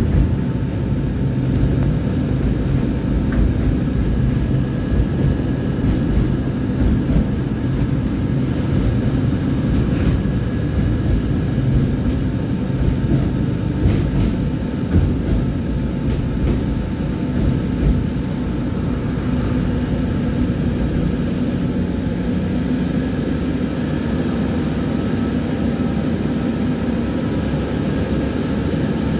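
Tram running along the rails: a steady low rumble of wheels and running gear, with a faint steady whine and a few scattered clicks.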